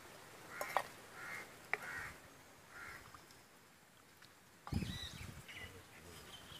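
Faint bird calls, four short ones in the first three seconds. About two-thirds of the way through comes a sudden knock with a brief ringing tone, then light handling noise.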